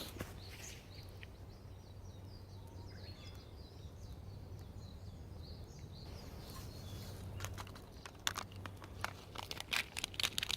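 Birds singing faintly over a low steady hum, then a quick run of sharp crackles and snaps in the last couple of seconds.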